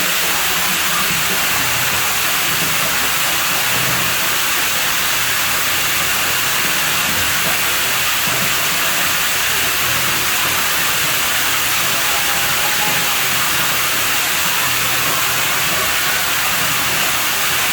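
Running water at a pool villa, a steady rushing hiss that does not let up.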